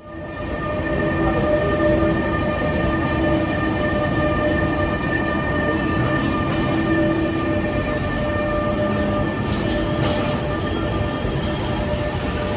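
Train running on the line, a steady rumble with a constant whine held on several pitches, and a few faint clicks of wheels over the rails.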